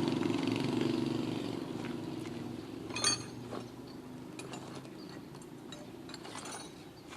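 Kubota RD105 single-cylinder diesel engine running and fading away over the first few seconds, then a sharp metallic click about three seconds in. The engine has a knocking 'jedak-jedak' fault, which the mechanic means to trace at the flywheel.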